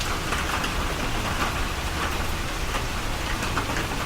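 Steady rain falling, with many small drop hits close by.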